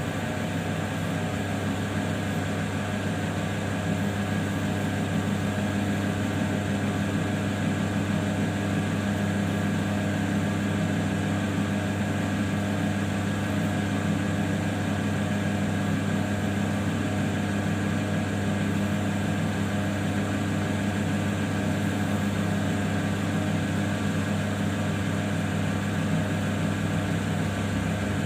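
Electric lapidary grinding wheel running with a steady, even hum while a small opal is shaped on it by hand.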